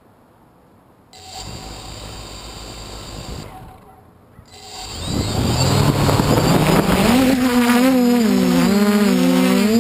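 DJI F450 quadcopter's four motors and 8-inch propellers spinning up: the tones rise in pitch from about five seconds in, then settle into a loud steady hum whose tones waver against each other as the motors adjust. Before that there is a lower, rougher noise from about a second in that fades out.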